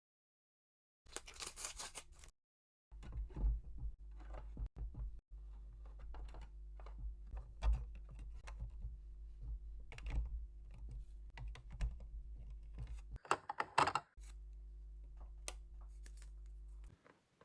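Small plastic pieces clicking and tapping as they are handled, with two bursts of crinkling packaging, one about a second in and one near the end. A steady low hum runs under the handling.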